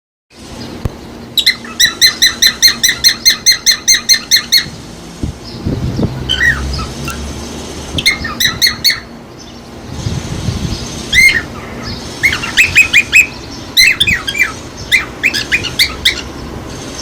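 A parrot calling: a fast run of short repeated squawks, about five a second, then several shorter bursts of chirping calls.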